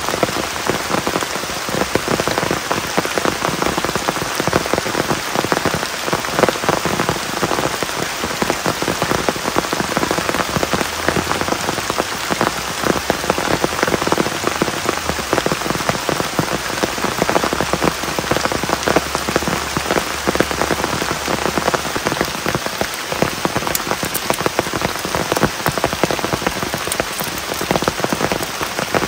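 Steady rain, thick with individual drop hits.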